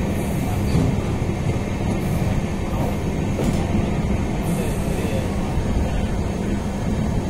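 Mumbai suburban local train running at speed: a steady rumble of wheels and coach on the rails, with a few brief spells of hiss.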